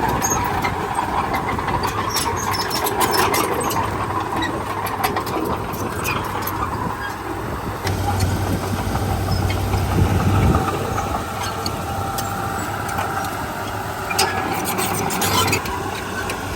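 Heavy diesel engines of a bulldozer and dump trucks running steadily, with scattered metallic clanks. The low engine drone grows louder about halfway through.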